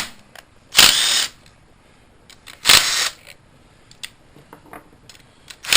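Handheld power tool run in short bursts of about half a second, twice, with another burst starting near the end.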